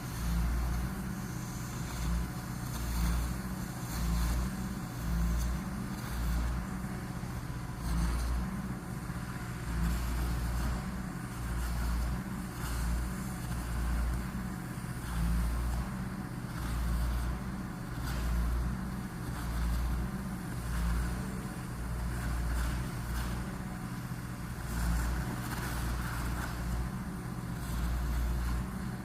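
Heavy machinery running steadily, with a low rumble that pulses about once a second.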